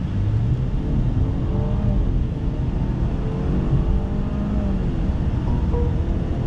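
Mercedes-Benz E-Class petrol engine heard from inside the cabin under a moderate full-throttle launch, the engine note climbing and dropping back as the automatic gearbox shifts up.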